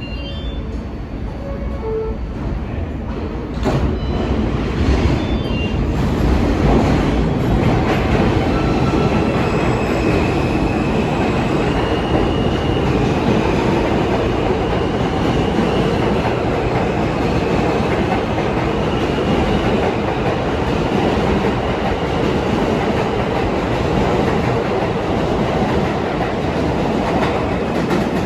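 New York City subway train running on the rails: a steady loud rumble that grows louder about four seconds in, with thin high squealing tones that come and go.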